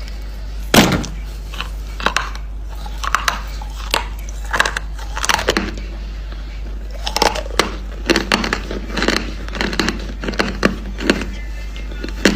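Close-up crunching of hard, dry chalk-like lumps being bitten and chewed: a string of sharp, irregular cracks, one or two a second, over a steady low hum.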